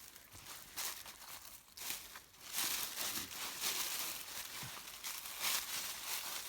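Footsteps crunching and rustling through dry leaves and undergrowth on a wooded slope, an uneven run of crackling steps that grows denser and louder from about two and a half seconds in.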